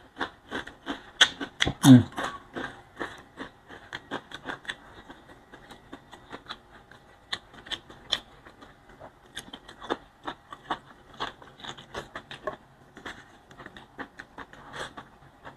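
Close-miked eating: crunching and chewing of fried dried biya fish, with many small irregular mouth clicks and smacks. A louder mouth sound with a falling pitch comes about two seconds in.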